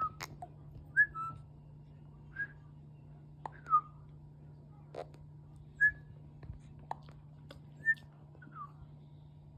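A string of short, high whistling squeaks, each dropping in pitch, about once a second, with faint sharp ticks between them over a steady low hum.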